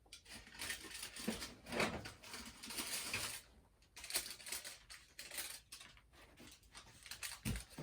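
Rummaging through things on a workbench: small objects clinking and shuffling in irregular bursts, with a dull thump near the end.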